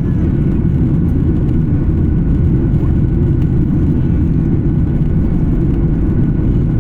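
Steady low rumble of an Embraer 175's GE CF34 turbofan engines and airflow, heard inside the passenger cabin in flight, with a faint steady whine above it.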